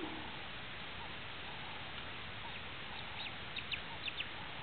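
Bird calls over a steady background hiss: faint short chirps repeat every half second or so, then about three seconds in a burst of sharp, high calls, several in quick pairs.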